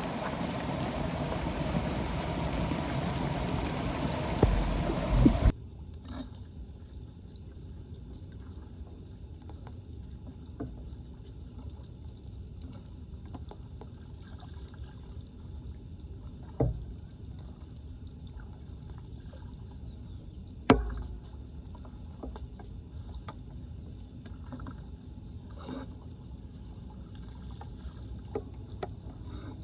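Floodwater flowing and sloshing at a street drain, loud for the first five seconds or so, then cutting off abruptly to a quieter trickle with scattered small clicks and two sharper knocks, the louder about 21 seconds in.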